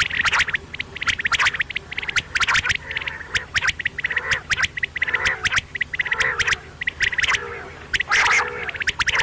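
Quail calling over and over in quick runs of sharp, clicking notes, with a steady low hum beneath.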